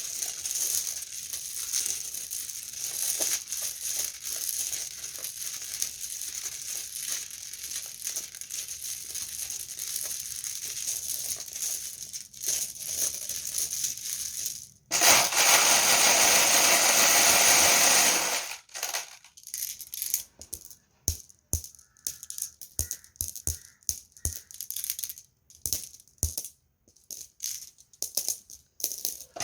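Marbles clattering: a continuous rattle of many marbles knocking together, then a loud rush for a few seconds around the middle as a mass of marbles pours. Sharp single clicks follow as marbles drop one at a time.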